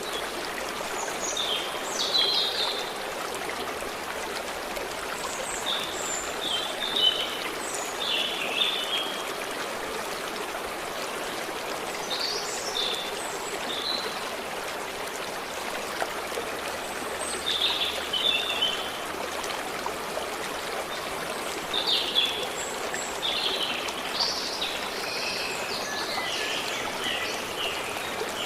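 A forest stream running steadily over stones, with small songbirds chirping in short phrases over it, most densely near the end.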